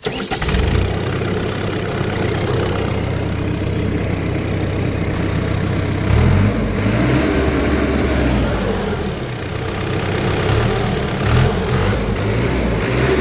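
Hidromek 105 backhoe loader's diesel engine starting and then running at idle, its revs rising and falling a few times, around six seconds in and again near the end. The engine has just had its injection pump repaired for a loss of power and rpm sag when the throttle was released, and now seems to run fine.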